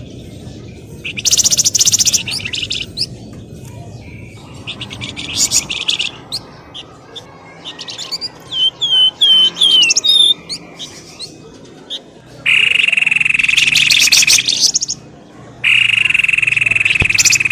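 Pelamboyan bird calls used as a lure: short bursts of rapid chattering notes, a string of short falling whistles about halfway through, then two long, loud buzzing rattles near the end.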